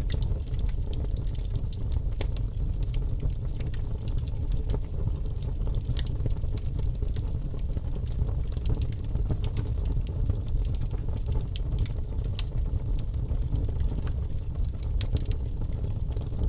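Wood fire burning in a fireplace: a steady low rushing of the flames with frequent sharp crackles and pops from the burning logs.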